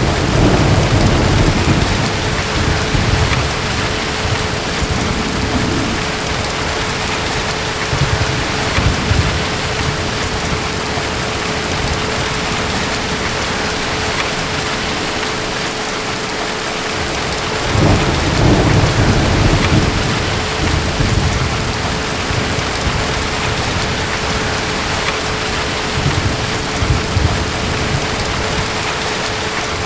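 Steady heavy rain with rolls of distant thunder: one rumble begins right at the start and another comes about 18 seconds in, each swelling and dying away over a few seconds.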